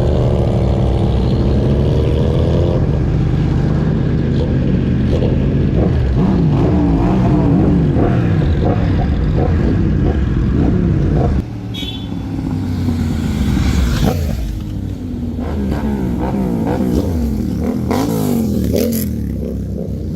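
Several sport motorcycle engines running and accelerating, their pitch climbing and falling repeatedly as they go through the gears. The sound drops abruptly about eleven seconds in.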